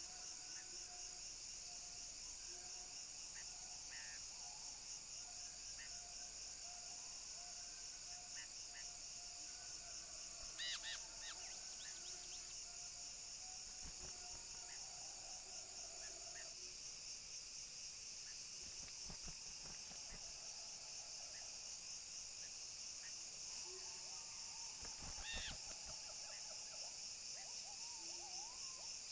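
Steady high-pitched drone of forest insects, pulsing rapidly, with a few short bird calls: one about 11 seconds in and another about 25 seconds in.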